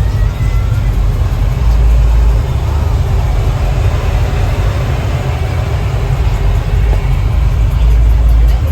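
Loud, deep rumble of a vehicle engine running.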